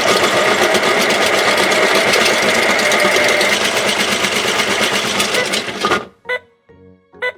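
Pink toy washing machine running its spin cycle: a loud, steady whirring rattle that cuts off about six seconds in, followed by a couple of short tones.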